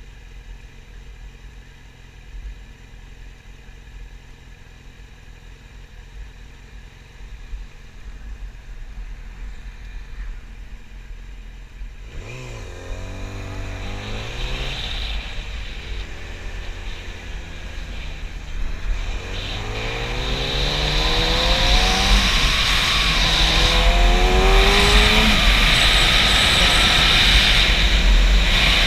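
Yamaha YZF-R6 inline-four engine idling steadily, then about 12 seconds in pulling away and revving up through several gear changes, each rise in pitch falling back at the shift. Wind noise on the microphone builds as the bike gains speed and is loudest near the end.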